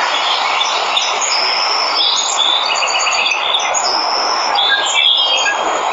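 Steady rushing of a waterfall, with birds chirping over it in short high whistled notes and quick trills.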